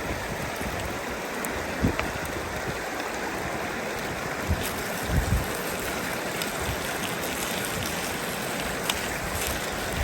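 Steady rushing of a flowing river or stream, with a few soft low knocks about two seconds in and again around five seconds.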